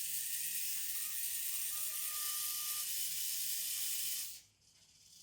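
Small DC gear motors of a toy line-follower car running, their plastic gearboxes whirring steadily, cutting off about four seconds in.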